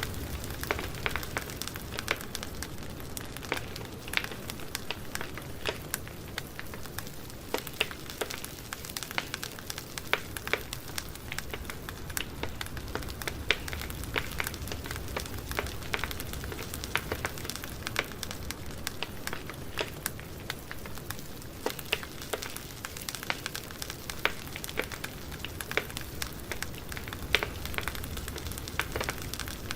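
Campfire burning: wood crackling and popping in frequent irregular snaps over a steady low rumble of the flames.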